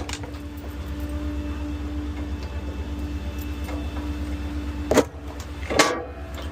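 A small rear-loader garbage truck's engine idles steadily with a low hum. About five seconds in come two sharp metal clanks a little under a second apart: a street litter bin's lid being slammed shut and its lock latching.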